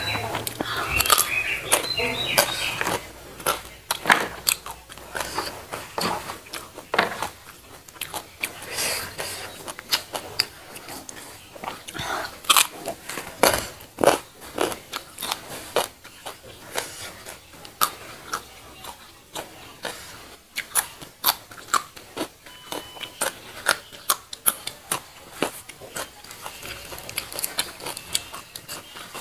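Close-miked crunching and chewing of raw papaya stalk and leaf: irregular crisp crunches, several a second at times, with wet mouth sounds between bites.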